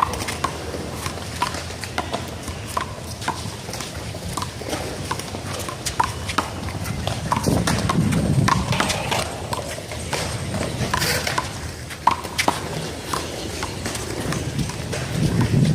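Sharp, irregular smacks of a rubber handball being struck by hands and bouncing off the wall and pavement during a one-wall handball rally.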